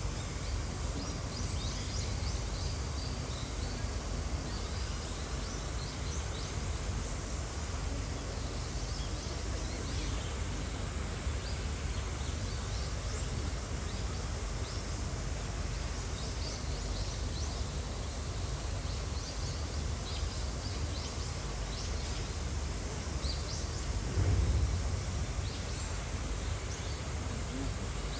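Steady outdoor background noise with a low rumble, scattered faint high chirps or ticks, and one louder low bump about 24 seconds in.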